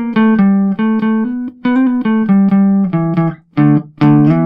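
Outro music: an electric guitar plays a melody of short separate notes and ends on a chord, struck about four seconds in, that rings out.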